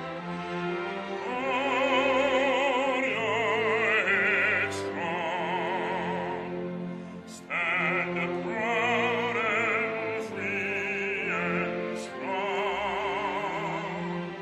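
Operatic singing with strong vibrato over instrumental accompaniment, in sustained sung phrases with a short break about halfway through.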